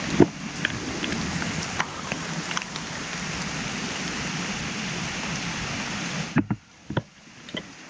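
Rain: a steady hiss with raindrops ticking on the camera. About six seconds in the hiss drops away suddenly, leaving only a few scattered drop ticks.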